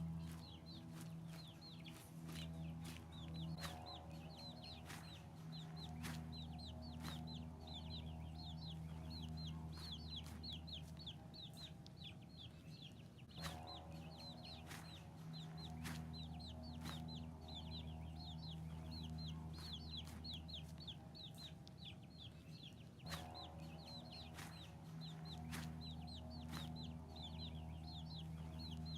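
Baby chicks peeping: a continuous run of short, high-pitched cheeps that slide downward, several a second.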